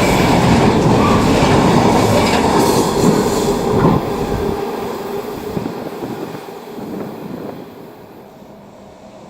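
A train passing close by on the track, wheels running over the rails with a rapid clatter; about four seconds in the noise drops and then fades steadily as the train moves away.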